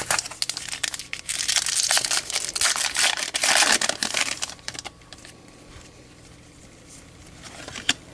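Foil wrapper of a baseball card pack being torn open and crinkled, a dense crackle lasting about five seconds, with a single sharp tap near the end.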